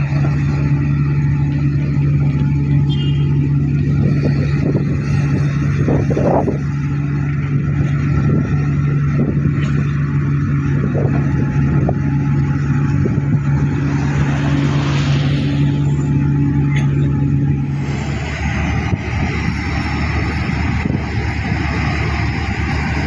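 Heavy diesel machinery running steadily with a strong low hum. About 18 seconds in the hum cuts out, leaving rougher, uneven engine noise.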